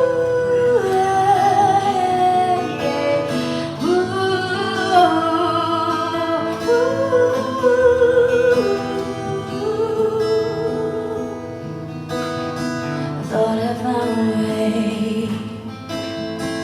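Live song with acoustic guitar accompaniment and a singer holding long, wavering notes.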